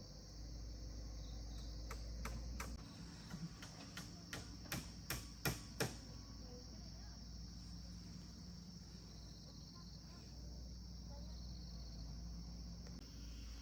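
Insects chirring steadily in a high, even drone, with a run of about eight sharp knocks between about two and six seconds in, the loudest near the middle of that run.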